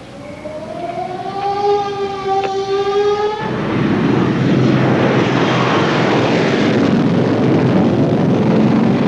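A film sound effect of an engine starting: a whine rising slowly in pitch for about three and a half seconds, then a loud, steady engine roar takes over.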